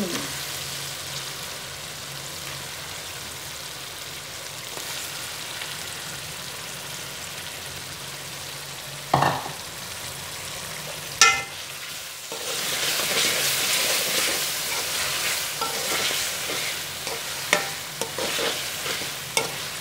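Frying in hot oil in a metal karahi as raw chicken pieces go into fried onion-tomato masala and are stirred in: a steady sizzle, two metallic clangs of the steel spoon against the pan, then the sizzle grows louder a little past halfway with scraping and clinking of the spoon.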